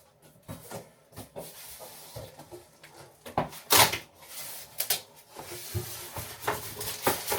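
Knocks, scrapes and rustles of packaging being pulled and worked loose from a new fridge freezer, in a small room. The loudest is a longer scraping rustle a little past halfway, with a few sharper knocks after it.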